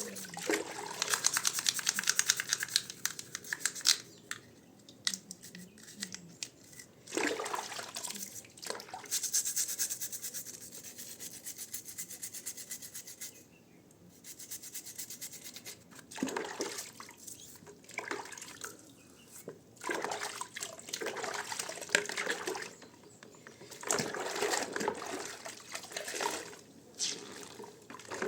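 Scrubbing with a brush, with water sloshing and dripping, in bursts of quick strokes separated by short pauses.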